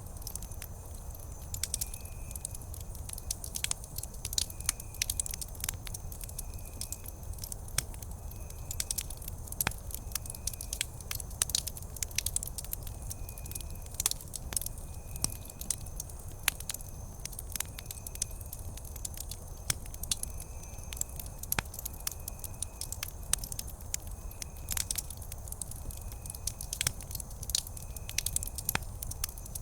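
Wood campfire crackling: sharp pops and snaps come at irregular intervals over a steady low rumble. A faint high chirp repeats about once a second behind it.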